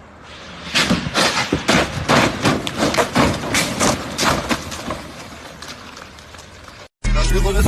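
Vehicle crash: a rapid run of loud bangs and crunches, about three or four a second, fading over several seconds. Near the end, hip hop music with rapping cuts in suddenly.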